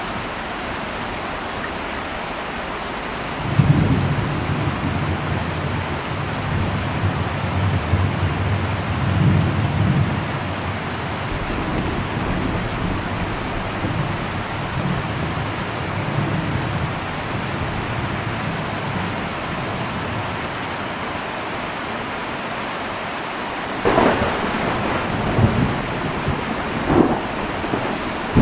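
Heavy rain hissing and drumming steadily on an old metal roof. A low thunder rumble rolls in a few seconds in and dies away over several seconds, and near the end a couple of sharper thunder cracks break through the rain.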